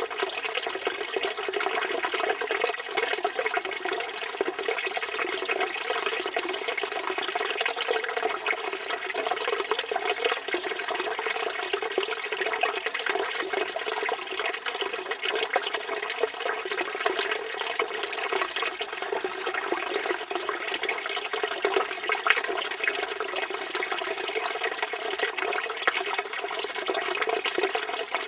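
Water pouring steadily from a village fountain's spout and splashing into the basin below, a constant even splashing without pause.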